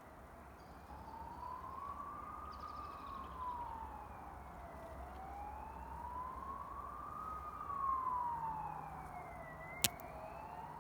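A siren wailing, its pitch rising and falling slowly, about two full sweeps. A single sharp click sounds near the end.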